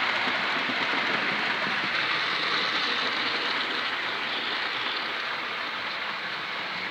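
Model railway locomotive running along the track: a steady noise of its motor and wheels on the rails, slowly getting quieter.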